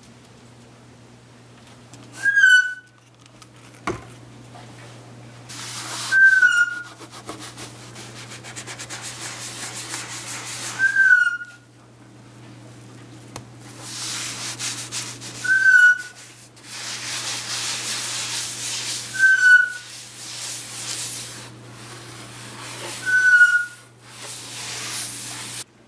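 Pan being scrubbed in the kitchen sink: stretches of rough scrubbing noise with six short, high squeaks, one about every four seconds.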